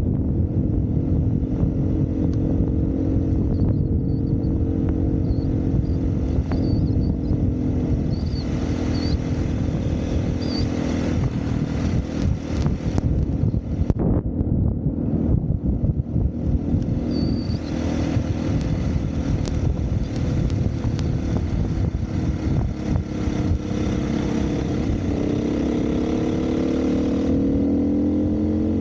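Dirt bike engine running under the rider's throttle, a steady drone that eases off briefly about halfway through, then revs up with rising pitch near the end.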